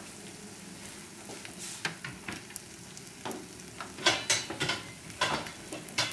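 An omelet frying gently in butter and olive oil over a low gas flame: a faint steady sizzle broken by sharp crackles and pops about every second, several of them close together around four to five seconds in.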